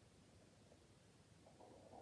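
Near silence: room tone, with a faint, brief noise starting about three-quarters of the way through.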